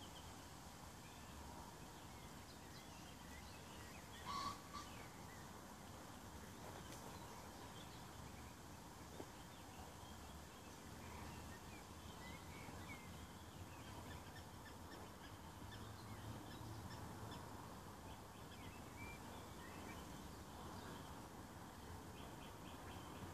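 Faint lakeside ambience with birds chirping in the distance now and then, and one brief louder sound about four seconds in.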